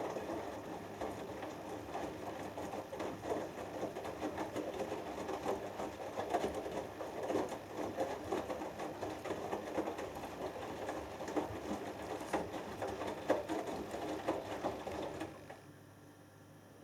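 Hoover Dynamic Next washing machine drum turning during the wash, a 6 kg cotton load tumbling with irregular clicks and knocks. The tumbling stops suddenly about 15 seconds in, leaving only a faint steady hum.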